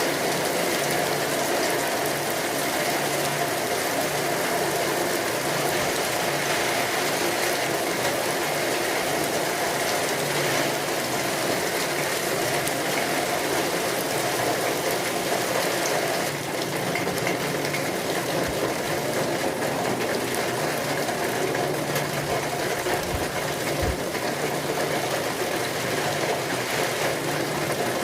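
Steady rain falling, an even hiss with a fine patter of drops that carries on unbroken.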